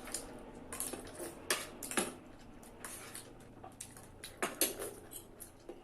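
Cutlery clinking and scraping against plates while noodles and momo are eaten: a string of scattered short clicks, a few of them sharper than the rest.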